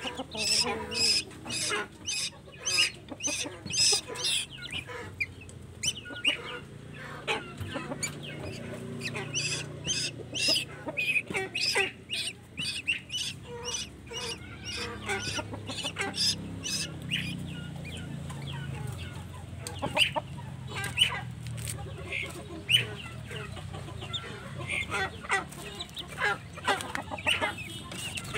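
Tuwu chick calling with rapid, repeated short calls as it is fed by hand, typical begging calls of a young bird.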